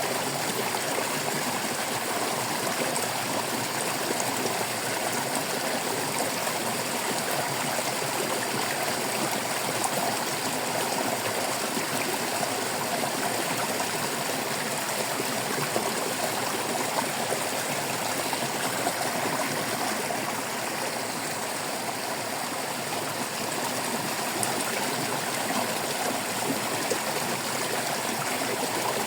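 Water babbling and trickling steadily over stones in a small stream.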